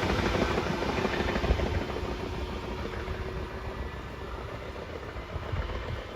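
Class 425 electric multiple unit running away along the track, its rumble fading steadily as it recedes.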